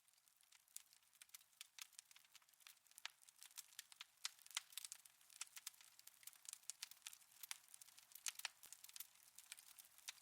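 Wood fire in a fireplace crackling: a quiet, irregular run of sharp pops and snaps over a soft hiss.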